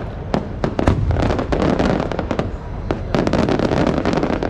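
Maltese cylinder fireworks shells bursting: a rapid volley of sharp cracks and bangs over a continuous rumbling crackle, densest about half a second to a second in and again just after three seconds.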